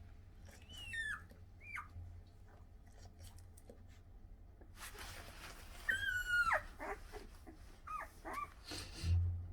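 Siberian husky puppy whining: a couple of short, high, falling whines about a second in, then a longer whine that slides down in pitch around six seconds in, followed by a few more short whines.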